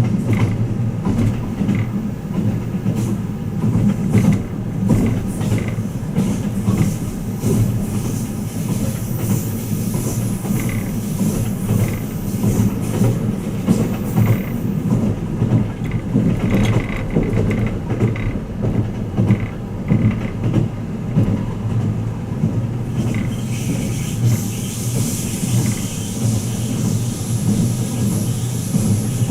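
Twilight Express Mizukaze sleeper train running at speed, heard from inside a passenger car: a steady low rumble of wheels on rail with scattered clicks.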